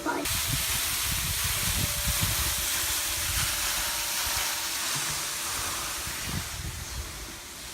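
A steady rushing hiss like falling water that starts abruptly just after the start, with irregular low buffets on the microphone.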